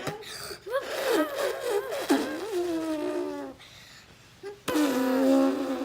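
A person imitating an elephant's trumpet by blowing air out through pursed lips: a wavering buzz that bends up and down in pitch for about three and a half seconds, then after a short pause a second, steadier call begins near the end.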